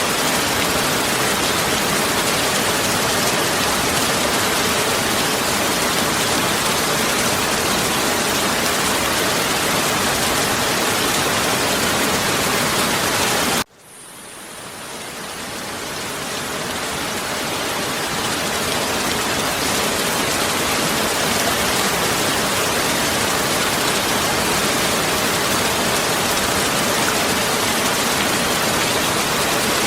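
Heavy rain falling as a dense, steady hiss. About halfway through it cuts out abruptly, then fades back in over a few seconds to full strength.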